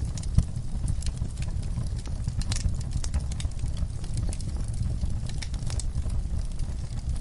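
Wood fire in a fireplace crackling: a steady low rumble of the flames with frequent, irregular sharp pops and snaps, the loudest about half a second in.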